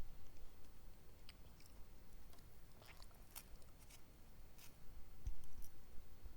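Close-up chewing and mouth sounds of a person eating, with scattered small wet clicks and a low thump about five seconds in.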